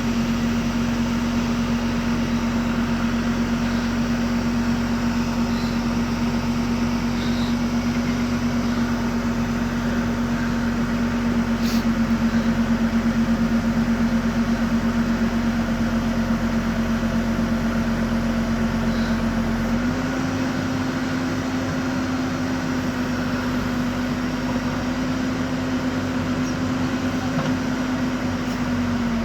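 Heavy machine's diesel engine running steadily with a constant hum. Its pitch steps up slightly about two-thirds of the way through.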